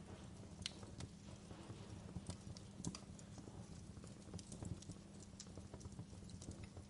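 Wood fire crackling, with irregular sharp pops and snaps over a low, steady rumble of the flames.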